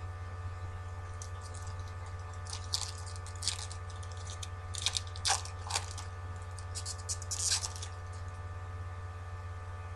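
Trading card packaging crinkling and rustling in a string of short bursts, over a steady low electrical hum.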